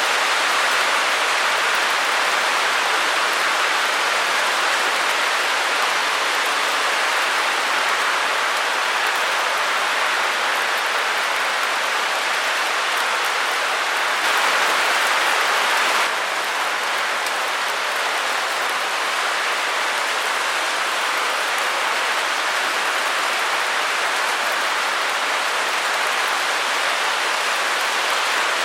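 Steady, even hiss of a white-noise track, without rhythm or distinct drops, its weight in the upper-middle range with little bass. Midway through it turns slightly louder and brighter for about two seconds, then settles back.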